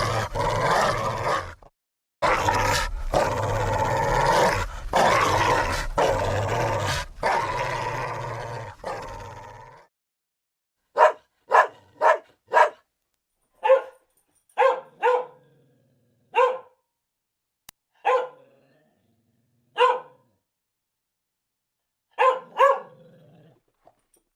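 A dog growls and snarls continuously for about ten seconds, with a short break near two seconds, before fading out. After a silence comes a series of about a dozen short, single dog barks at irregular intervals, some in quick pairs.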